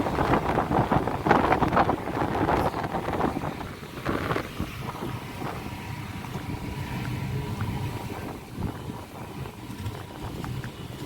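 Wind buffeting the microphone, gusty and louder for the first few seconds, over the steady low rumble of a passenger ship under way.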